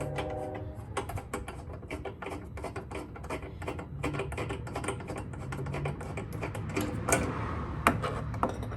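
Ratchet wrench clicking rapidly and unevenly as it backs out the Torx screws of a plastic exhaust cover, over a steady low hum, with a brief hiss about seven seconds in.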